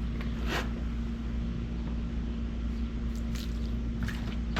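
A steady low machine hum, like a motor or engine running, with a few brief rustling hisses about half a second in and again near the end.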